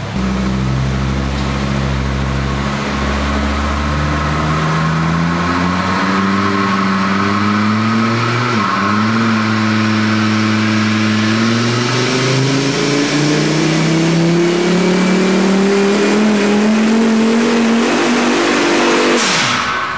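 Volvo 850 turbo's five-cylinder engine under full load on a dyno, its note climbing slowly and steadily in pitch through a long pull. About eight and a half seconds in the pitch dips briefly in a stumble of the kind the owners take for a misfire, and near the end a sudden loud rush comes just before the engine note drops away.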